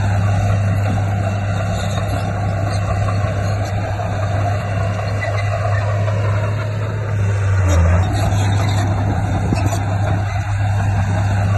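Komatsu D58P bulldozer's diesel engine running steadily under load, with a deep steady drone that swells briefly about eight seconds in.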